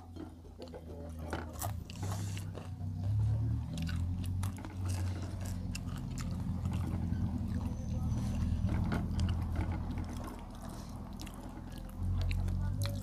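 Chewing and eating by hand, picked up close by clip-on lapel microphones: an uneven low rumble from the chewing with scattered small clicks and crunches.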